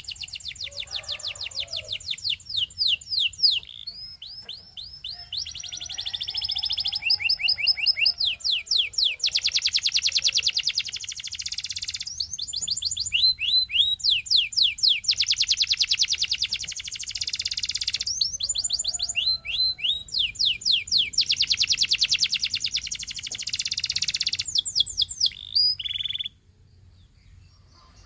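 Canary singing: long rolling trills of rapidly repeated notes, phrase after phrase changing speed and pitch with short pauses between, breaking off about two seconds before the end.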